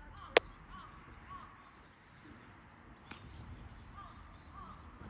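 Small birds chirping on and off, with two sharp clicks: a loud one about half a second in and a softer one about three seconds in.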